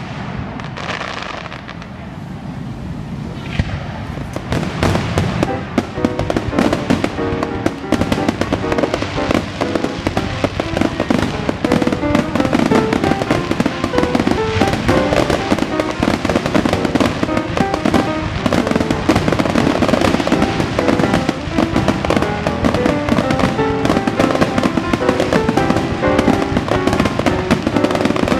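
Fireworks show: a steady barrage of bangs and crackles that grows much denser after about four seconds.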